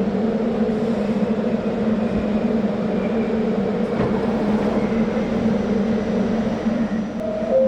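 Staten Island Railway electric train giving a steady, even hum. Near the end comes a short two-note tone, the second note lower.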